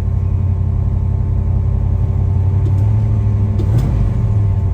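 1972 Ford Mustang Mach 1's V8 engine running steadily, a deep even hum heard from inside the car.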